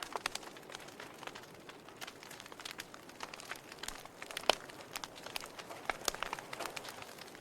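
Wood fire crackling in a fireplace: a soft steady hiss with irregular sharp pops and snaps, the loudest about four and a half seconds in.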